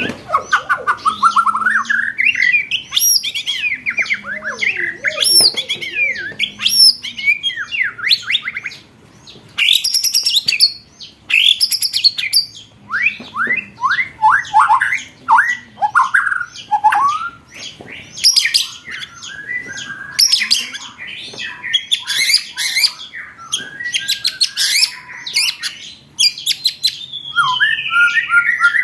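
Songbird song loaded with fast rolling trills and harsh chattering runs, mixed with short whistled glides. Dense rapid rolls come around 10 s, 20 s and 24 s in, with a falling slurred phrase near the end.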